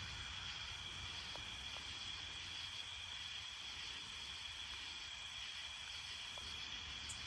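A chorus of night-singing insects, crickets and katydids, keeping up a steady high-pitched trill, over a faint low rumble.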